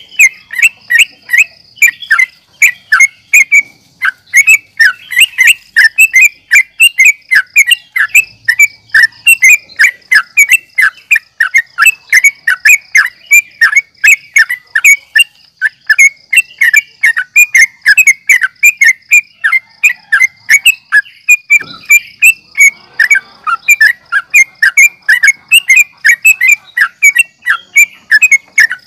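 Yellow-vented bulbul (trucukan) singing in fast, chattering runs of short chirped notes, dense and unbroken, with sharp high ticks between them.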